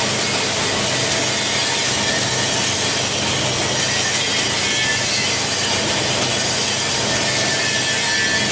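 Hard-plastic bottle recycling line running: a steady, dense grinding and rushing noise over a low hum, without let-up, as machines crush and wash the plastic.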